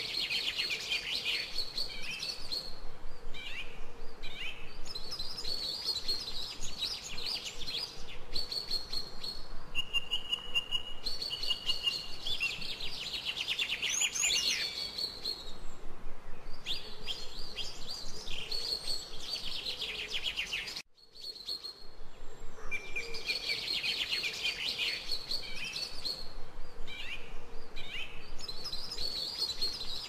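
Songbirds singing: runs of fast trilled and warbled phrases separated by short pauses. The sound drops out for a moment about two-thirds of the way through.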